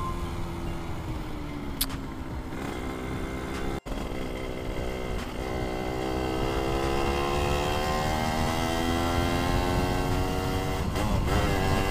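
Suzuki Satria 120 single-cylinder two-stroke engine under way with wind rush. Its revs sag, then after a brief break in the sound they climb slowly and steadily, on a bike the owner calls weak on power.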